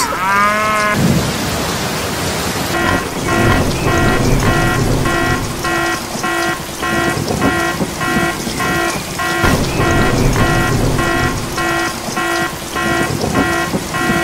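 Steady rain with thunder, a short sliding electronic tone in the first second, then from about three seconds in a pitched electronic beep repeating about twice a second over the rain, like an alarm.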